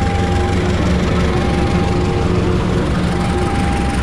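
Diesel locomotive passing close by with its engine rumbling, as the passenger coaches behind it roll past. Over it, a level-crossing warning alarm sounds one tone over and over, about a second on and a second off.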